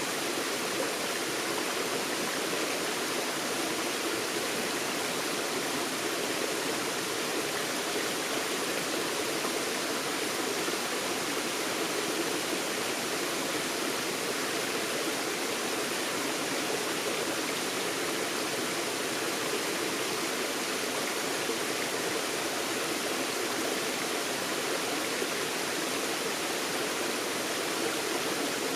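Forest stream flowing over rocks: a steady, unbroken rush of running water.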